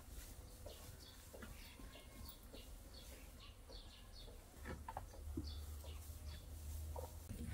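Small birds chirping: many short, high chirps repeating through the whole stretch, faint, over a low steady rumble.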